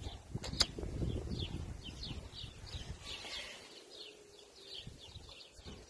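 Small birds chirping, with many short, quick calls repeating several times a second. Low rumbling handling noise in the first half and one sharp click about half a second in.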